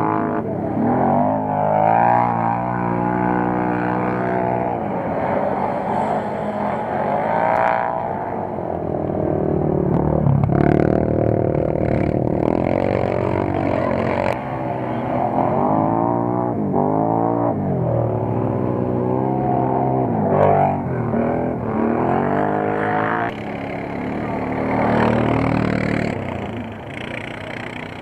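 Off-road quad bike and buggy engines revving hard on a muddy race track, their pitch rising and falling again and again as they accelerate and ease off.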